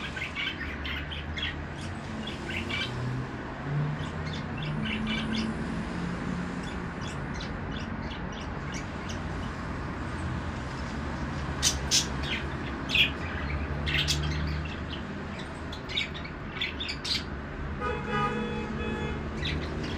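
Budgerigars chirping and chattering in quick, sharp calls over a steady low hum. Near the end a single pitched tone sounds for about a second and a half.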